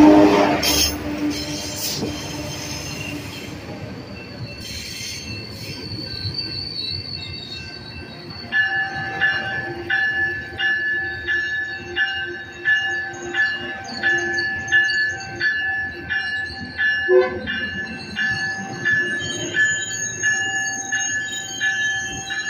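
Metrolink F125 diesel locomotive and its bilevel coaches arriving at a station platform: a loud rumble as the locomotive passes, fading, then a steady high squeal from the wheels and brakes as the train slows. From about eight seconds in, a grade-crossing warning bell rings steadily about twice a second.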